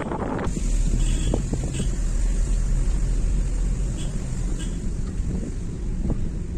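Car driving along a road: a steady low rumble of engine and tyres with wind noise, starting abruptly about half a second in.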